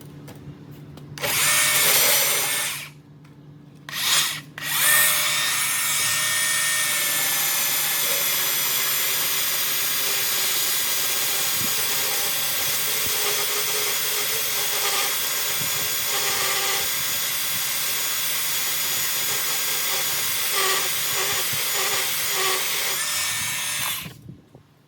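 Electric belt sander grinding an exhaust pipe flange flat. It starts and stops twice, then runs steadily for about twenty seconds before stopping near the end.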